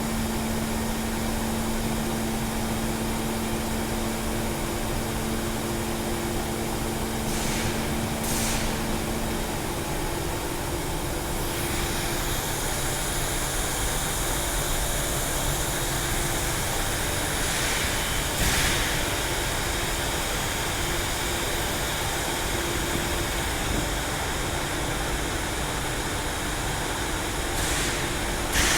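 Truck engine running steadily, with a steady hum that stops about ten seconds in and a few short clicks.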